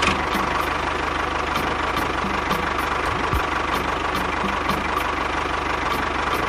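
An engine idling steadily with an even, rapid firing pulse.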